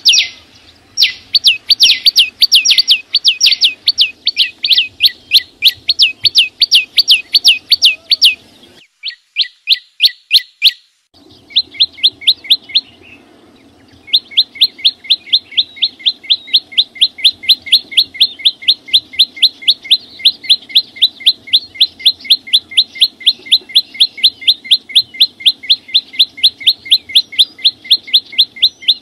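A chim sâu xanh, a small green songbird, singing a long, fast run of sharp, repeated notes, each dropping quickly in pitch, at about four a second. The song breaks off briefly about 13 seconds in, then resumes at the same even pace.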